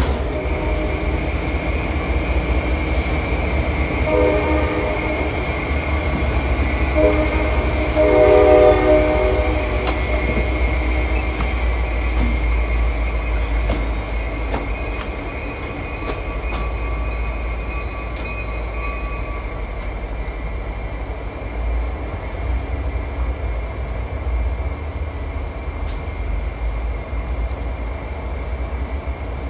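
Diesel switcher locomotive rumbling along the track, sounding its horn: a short blast about four seconds in, then a brief one and a longer, louder blast a few seconds later. A steady high-pitched tone runs under it.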